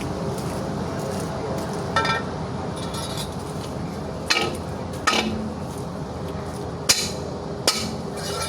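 Metal tools knocking and clinking against steel truck-wheel parts: about five sharp metallic strikes spread across several seconds, the first ringing briefly, over a steady background noise.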